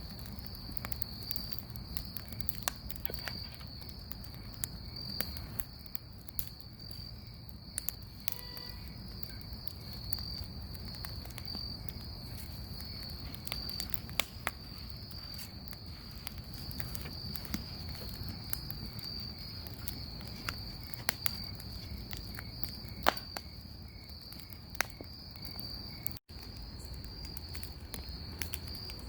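Bonfire crackling with scattered sharp pops and snaps, over a steady high chirring of crickets.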